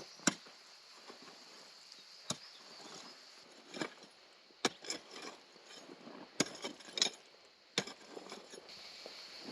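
Scattered sharp knocks, about eight at irregular intervals, of a hand digging tool striking and shifting soft, layered slaty stone.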